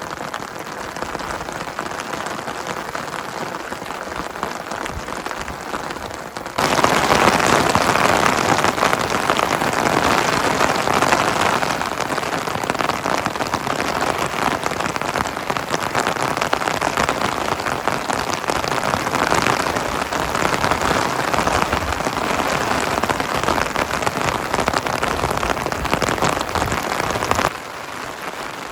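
Heavy rain falling and pattering on a surface, a steady dense hiss. About six seconds in it turns suddenly louder and fuller, and near the end it drops back to the softer level.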